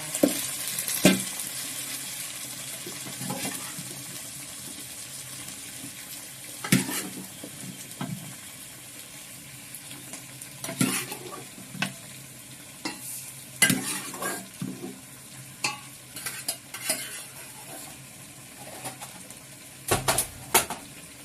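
Chicken pieces frying with browned onions in a pot, a steady sizzle. A utensil stirring knocks against the pot now and then, with a few sharp knocks near the end.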